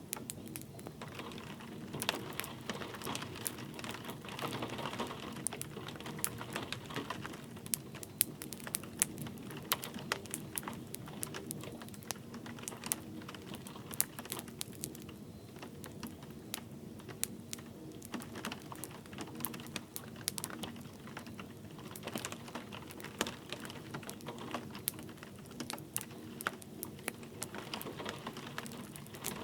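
Wood fire crackling in a fireplace, with many sharp pops and snaps, over a soft steady hiss of light rain.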